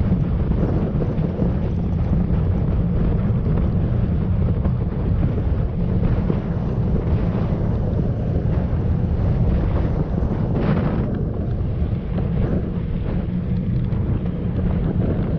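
Wind buffeting the microphone of a camera riding on a moving bicycle: a steady low rumble with hiss above it, and a brief louder rush about ten seconds in.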